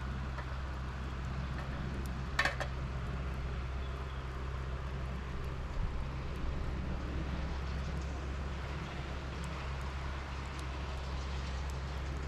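Engine running steadily with a low hum, with a brief sharp clatter about two seconds in.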